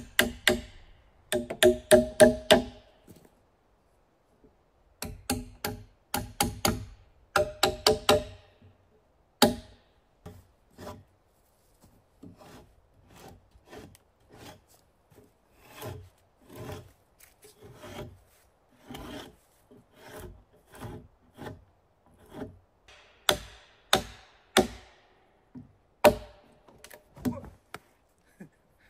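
Runs of quick, ringing hammer blows on wood in the first eight seconds or so, then a hand saw cutting wood in steady back-and-forth strokes, roughly one and a half a second.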